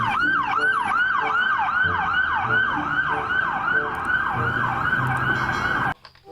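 Toy police car's electronic siren: a rapid falling wail repeating about three times a second, cutting off suddenly near the end.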